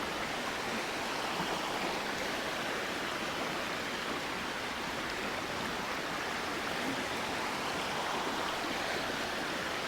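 A river flowing nearby, its water rushing in a steady, even wash.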